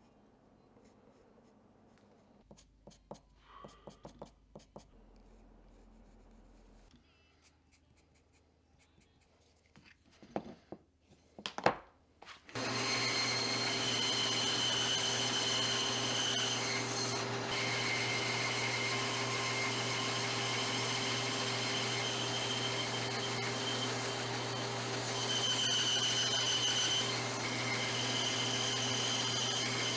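A few scattered knocks and clicks, then about twelve seconds in a band saw starts up and runs steadily, cutting a leopard wood and spalted birch blank.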